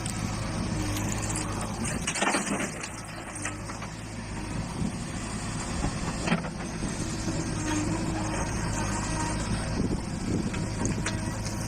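Heavy diesel machinery running steadily during soil loading, with a louder burst of clatter about two seconds in and a sharp knock about six seconds in.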